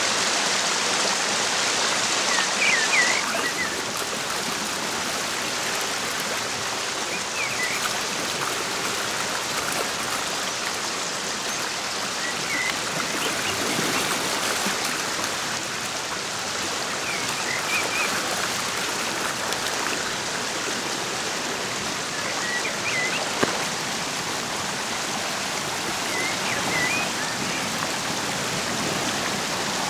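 Muddy floodwater rushing and churning in a fast-flowing torrent, a steady wash of running water. Short high chirps come every few seconds.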